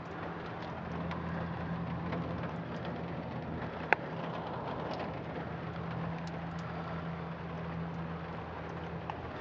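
Steady outdoor background noise with an even low hum, and one sharp click about four seconds in.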